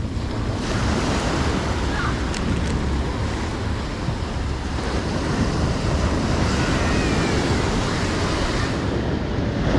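Ocean surf breaking and washing up the beach, swelling and easing, with wind buffeting the microphone as a low rumble.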